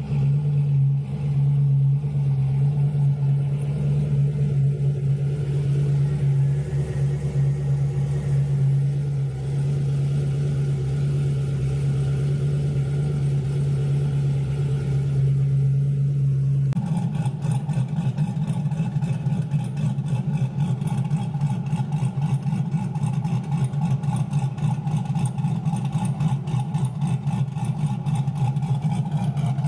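Big-turbo LS V8 in a Camaro idling steadily; about two-thirds of the way through the sound changes abruptly to a choppy, pulsing idle.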